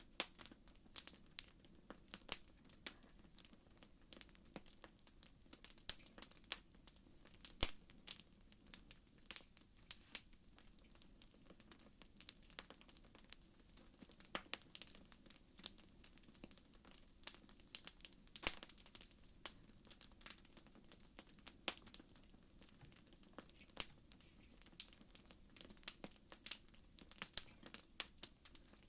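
Campfire crackling: irregular sharp pops and snaps, several a second, over a faint low rumble.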